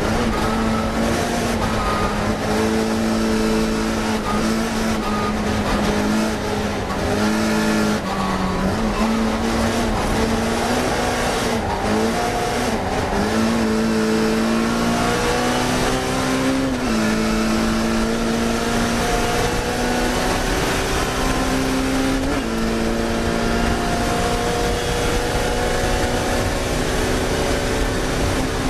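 Classic Mini racing car's four-cylinder engine running hard at high revs. Its pitch climbs slowly through each gear and drops suddenly at several gear changes, under a constant rush of noise.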